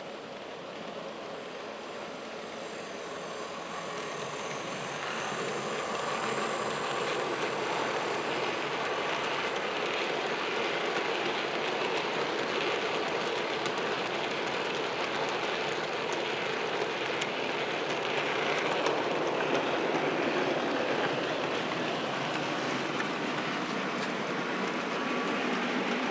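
Model train running on the layout track, the running noise growing louder over the first few seconds and then holding steady, with light clicks from the wheels over the rails.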